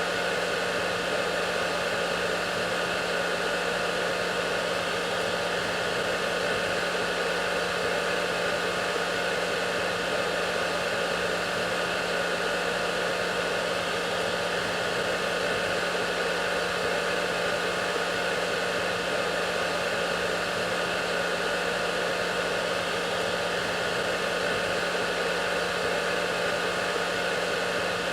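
Hair dryer running continuously: a steady, unchanging rush of air with a constant motor hum.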